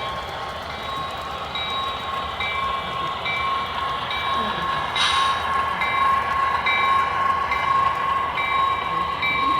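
Model train running, with a steady electronic tone and a higher tone that pulses on and off about once a second. A short hiss comes about halfway through.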